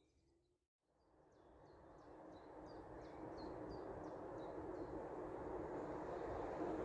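PKP Intercity ED250 Pendolino electric train approaching, a rushing rumble that grows steadily louder from about a second in. A bird repeats a short falling chirp over it.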